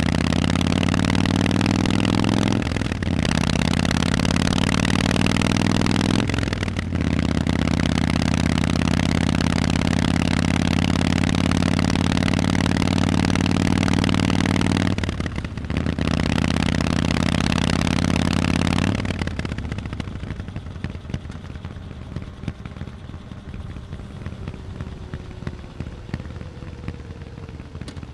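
Harley-Davidson Forty-Eight's 1200 cc V-twin running through loud Vance & Hines exhausts while riding, the pitch climbing slowly under throttle and dropping out briefly three times as gears are changed. About two-thirds in the sound falls away sharply to a much quieter burble as the throttle is closed.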